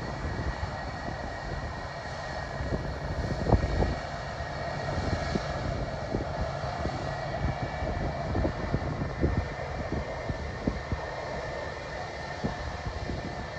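Jet airliner's engines making a steady roar with a faint high whine, mixed with irregular low thumps.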